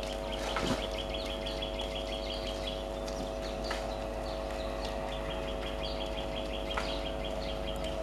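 A bird calling in rapid runs of repeated chirps, two long runs, over a steady low hum.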